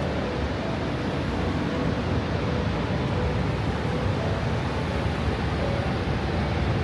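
Steady roar of Niagara Falls: an even, unbroken rumble of falling water, heaviest in the low range.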